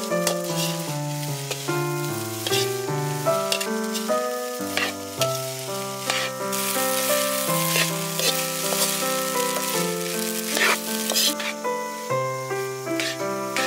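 Fried rice sizzling in a metal wok as it is stirred and turned with a metal ladle, with scrapes and clinks of the ladle on the pan; the hiss grows louder for several seconds about halfway through. Background music with a melody plays throughout.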